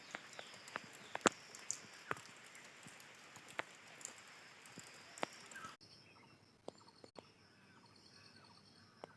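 Outdoor nature ambience: a steady high insect trill with scattered sharp clicks. About six seconds in it changes abruptly to a quieter stretch of faint short chirps over the trill.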